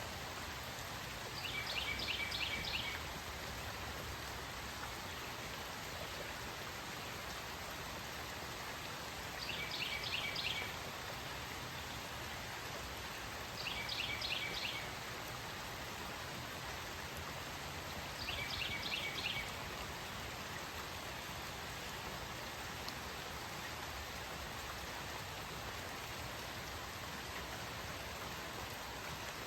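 Steady rain falling, an even hiss throughout. A bird sings a short phrase of rapid, high repeated notes four times over it, about four to five seconds apart.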